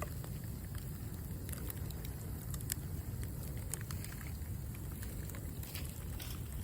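Bamboo charcoal burning in a campfire, crackling with scattered sharp pops over a steady low rumble.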